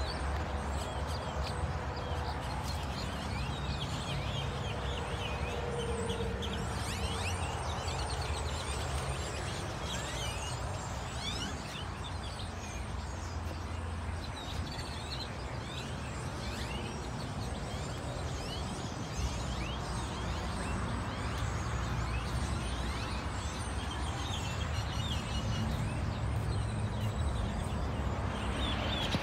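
Many birds chirping over a steady low outdoor rumble.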